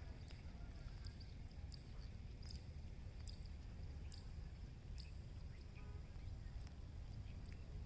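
Small birds giving short, high chirps every second or so, faint over a steady low rumble.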